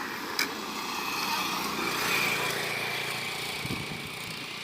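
A small engine running steadily, with a sharp click about half a second in.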